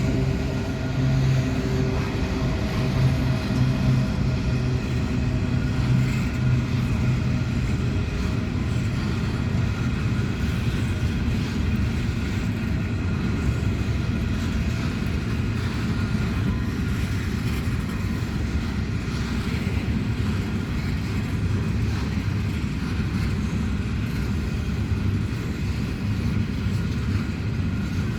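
Aurizon diesel locomotives running with a steady engine note as an empty coal train arrives. After about eight seconds the engine tones fade into a continuous rumble of rolling wagons.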